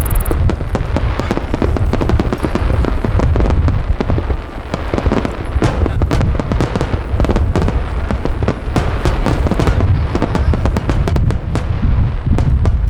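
Aerial fireworks shells bursting in rapid, overlapping succession: a continuous barrage of booms and crackles with a deep rumble underneath.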